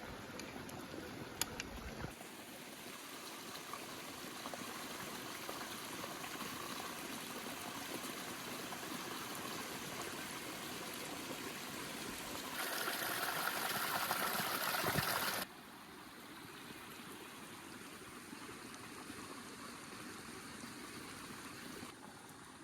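Running water, a steady rushing flow like a stream. It jumps louder and brighter about twelve seconds in, then drops back quieter about three seconds later.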